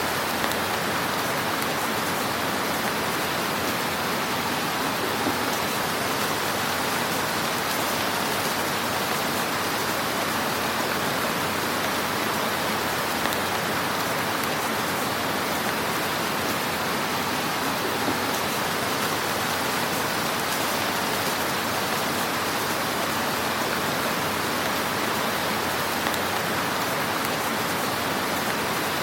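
Fire burning in a fireplace: a steady, dense crackling hiss with a few slightly louder pops.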